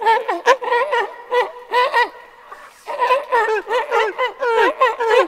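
An animal giving quick runs of short, pitched calls that bend up and down in pitch, several a second, with a pause of about a second near the middle.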